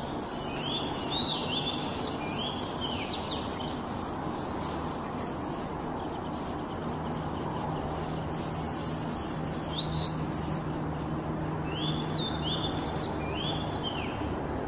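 Oriental magpie-robin (kacer) singing in short bursts of quick rising notes, two clusters near the start and near the end with single notes between, over a steady background hiss.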